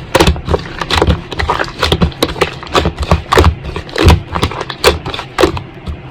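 Slime being squeezed and pressed by hand, making irregular wet clicks and pops several times a second.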